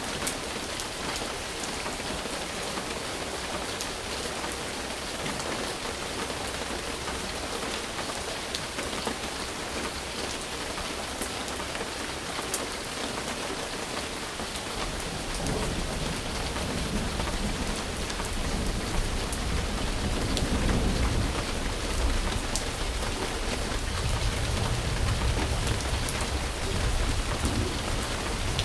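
Steady rain, with sharp ticks of nearby drops. About halfway through, a low rumble of thunder builds and keeps rolling.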